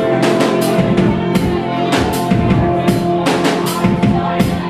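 A band playing live: drum kit strikes, bass drum and snare, over held instrument notes.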